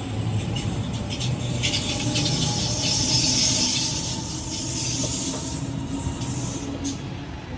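Sydney Trains Waratah A-set electric double-deck train pulling out and running along the platform: wheels on the rails with a low motor tone and a high hiss, loudest about three seconds in and then fading.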